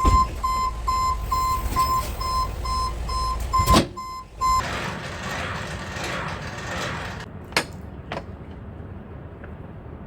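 Vehicle back-up alarm beeping steadily, a little over two beeps a second, stopping about four and a half seconds in. Then a hiss lasting a couple of seconds and two sharp clicks.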